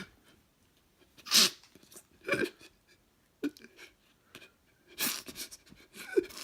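A man's short breathy vocal bursts, sniffs and sob-like gasps, each a fraction of a second long with pauses between.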